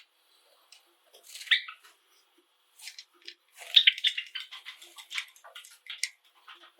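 Pet Java sparrows chirping, with a single call about a second and a half in, then a quick run of short clicking notes in the second half.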